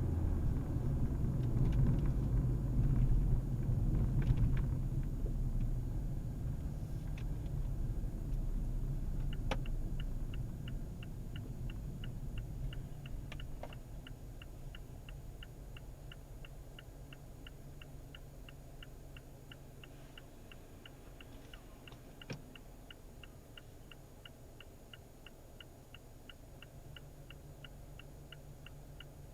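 A low rumble that dies away over the first half, then a steady, even ticking at about two ticks a second that starts about nine seconds in, offered as an abnormal noise.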